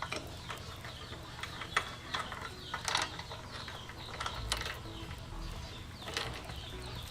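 Motorcycle roller drive chain being handled and fitted: irregular light metallic clicks and rattles of the links.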